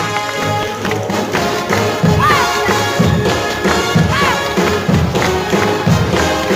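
Orchestral show-tune accompaniment to a tap-dance break: rhythmic taps and thuds under the band, with several swooping sliding notes.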